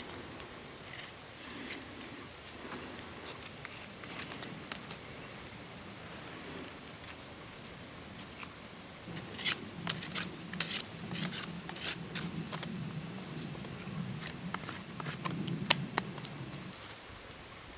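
Campfire crackling, with sharp pops of burning wood that come thicker in the second half. A low steady rumble runs underneath from about halfway through until shortly before the end.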